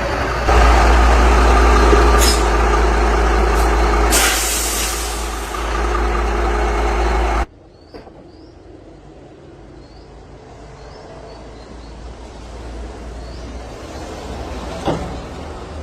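Heavy truck engine running, with a sharp burst of air hiss about four seconds in, like an air brake release. The sound cuts off abruptly about halfway through, leaving a much quieter background with a few faint high chirps.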